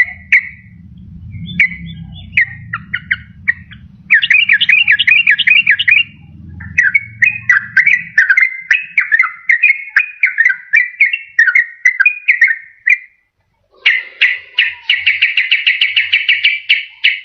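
Sooty-headed bulbul (trucukan) singing: phrases of quick bubbling, warbling notes, with a fast chattering run near the end.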